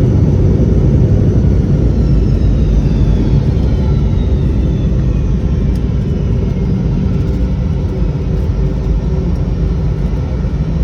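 Cabin noise of a Boeing 717 slowing after landing: a heavy, steady rumble that gradually eases, with several whining tones falling in pitch as its rear-mounted Rolls-Royce BR715 turbofans spool down.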